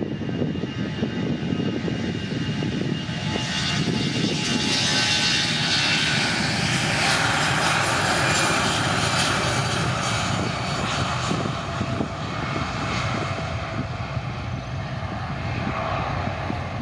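AirAsia jet airliner's engines roaring at take-off power, growing louder about four seconds in and then slowly fading.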